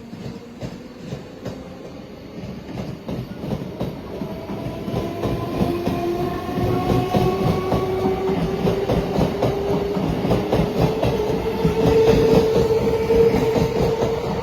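Train approaching and running along the platform, getting steadily louder, its wheels clacking over the rail joints, with a whine that slowly rises in pitch.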